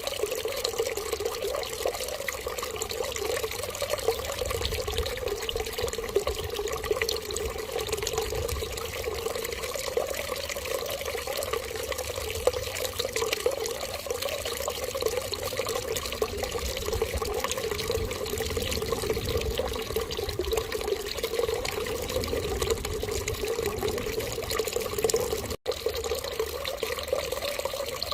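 Water running and trickling steadily, with a brief cut to silence for a split second near the end.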